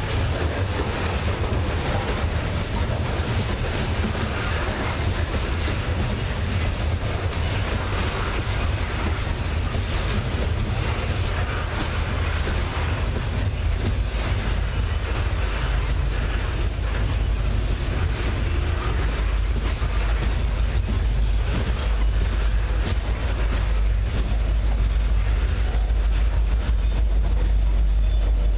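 Freight train rolling past on the main line: a steady rumble and clatter of wheels on rail, with the deep low rumble growing louder toward the end.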